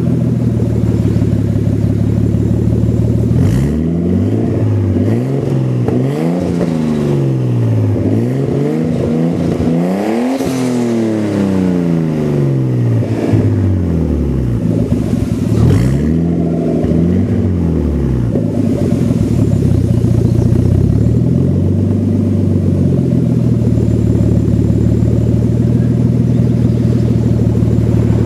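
Nissan RB20DET turbocharged inline-six idling through a Megan aftermarket exhaust, then blipped and revved several times, the biggest rev about ten seconds in, before settling back to a steady idle.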